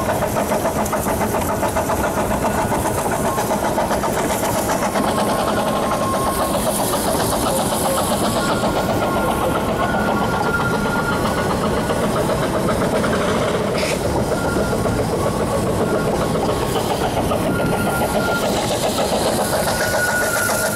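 Ffestiniog Railway narrow-gauge steam train running, heard from aboard: a steady rumble and rattle of the moving train with a thin high squeal coming and going, and one sharp knock about 14 seconds in.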